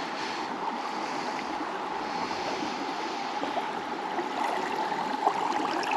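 River water flowing and rippling, a steady even rush.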